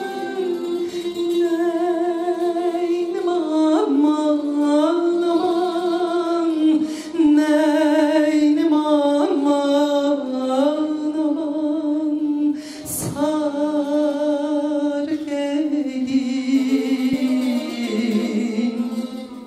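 A woman singing a Turkish folk song (türkü), her long held notes wavering with heavy vibrato and ornaments. A single sharp click is heard about two-thirds of the way through.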